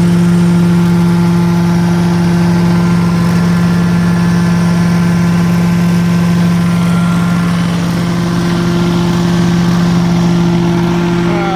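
Prochem truck-mount carpet-cleaning unit running steadily: its 20 HP Kohler engine and Sutorbilt blower give a loud, even hum with a higher whine above it, easing slightly about two-thirds of the way through.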